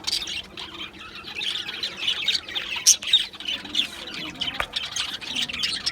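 A flock of budgerigars chattering and chirping, many birds at once in a dense, continuous warble, with a few sharper squawks around the middle.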